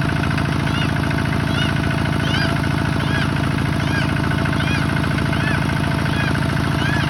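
Tractor's diesel engine running steadily, with a short high chirp that rises and falls, repeating about once a second.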